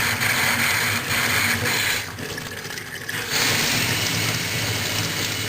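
Water running from a freshly repaired faucet into a utility sink, the flow weakening for about a second roughly two seconds in and then coming back full.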